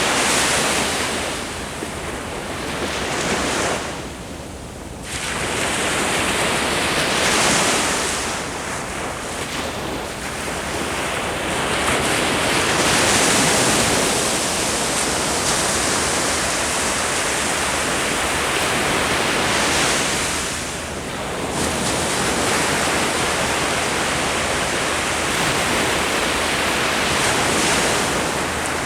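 Ocean waves breaking and washing up on the shore, the surf swelling and easing every few seconds.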